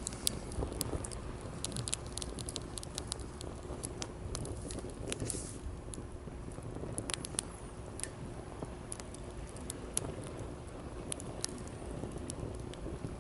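Wood campfire crackling, with irregular sharp pops and snaps, over a steady low wash of sea waves.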